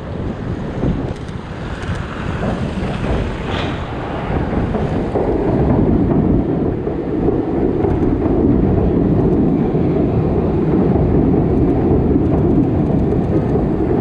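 Blizzard wind buffeting the camera's microphone as a steady, loud rumbling rush, growing stronger about five seconds in.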